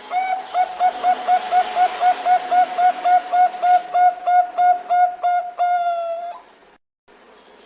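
Zebra dove (perkutut bangkok) calling: a rapid series of short, even cooing notes, about four a second, ending in one longer drawn-out note that falls slightly at the end, then cutting off suddenly.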